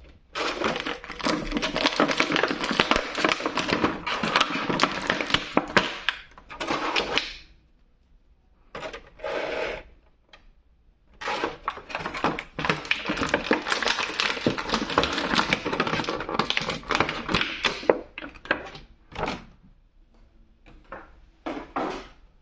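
Plastic packaging of a boxed action figure crinkling and crackling as it is handled and pulled apart, in long stretches broken by short pauses and a few brief bursts near the end.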